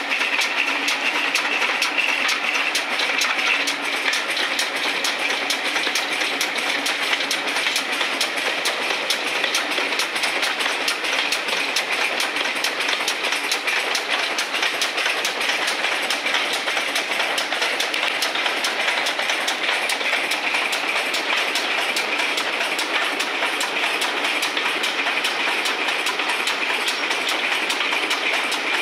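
Steam-hauled passenger train running along the line, heard from a carriage window just behind GWR pannier tank 1369: a steady rush of running noise with rapid clicking of wheels on rail throughout.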